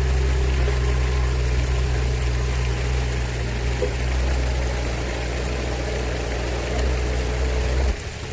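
Engine of a construction machine lifting a strapped boulder, running steadily at raised throttle, then dropping back to idle near the end.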